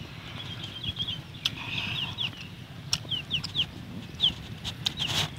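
Birds peeping in short, high, downward-sliding chirps, in scattered groups of two or three. A few sharp clicks of chopsticks on china dishes come in between.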